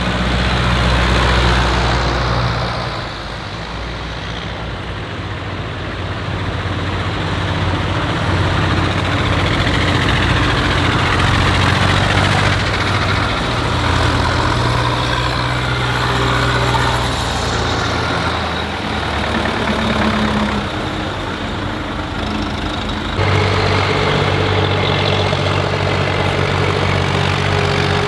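Tractor engines running as several tractors drive past one after another, the engine note shifting as each one goes by. The sound changes abruptly about 23 seconds in.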